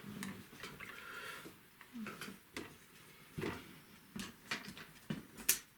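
Paintbrush working on watercolour paper: short scratchy strokes and light taps, as grasses are flicked in, with a sharp click near the end.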